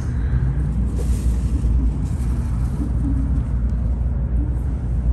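Sanyo Shinkansen Kodama train running at speed, a steady deep rumble heard from inside the passenger cabin, with faint tones that shift in pitch.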